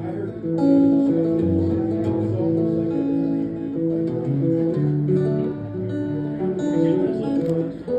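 Acoustic guitar playing an instrumental break between sung verses of a folk song, picking a run of single melody notes over bass notes.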